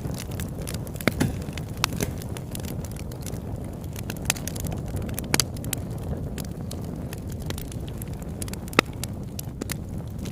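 Campfire crackling: irregular sharp pops and snaps over a steady low rumble of the burning fire, with one louder pop a little before the end.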